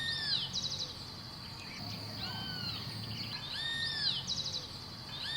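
Bird calling: short arched, whistled notes repeated every couple of seconds, each followed by a quick high trill, over a steady high-pitched hum.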